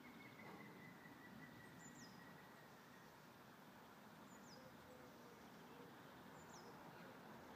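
Near silence: faint garden ambience, with a small bird's short, high call falling quickly in pitch, three times about two seconds apart.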